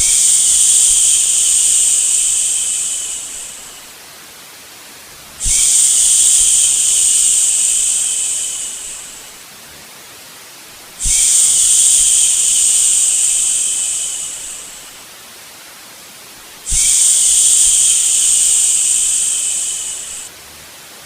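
A person's long shushing "shhh" sound, repeated four times about every five and a half seconds, each shush fading away over a few seconds. A steady, quieter hiss of white noise runs underneath.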